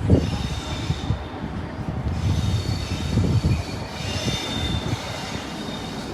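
Class 47 diesel locomotive passing on the rails with a steady rumble and knocking. High-pitched wheel squeal rises and fades three times.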